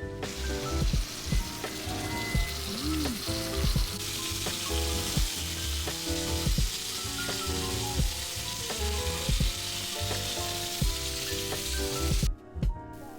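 Food sizzling as it fries in a pan, a steady hiss that cuts off suddenly near the end, with background music playing throughout.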